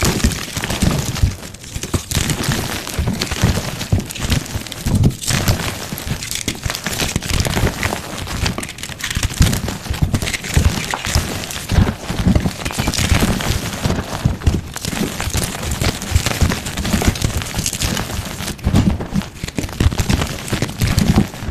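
Gym chalk being crushed close to the microphone: a continuous, dense, irregular crunching and crackling with many sharp cracks and soft low thuds as the chalk breaks and crumbles into powder.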